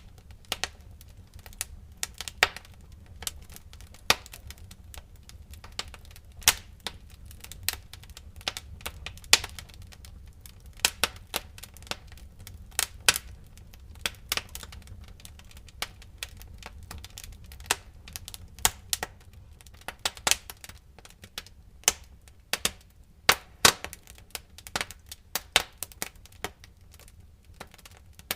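Wood fire in a fireplace crackling, with irregular sharp pops and snaps of burning firewood, some louder than others, over a steady low rumble.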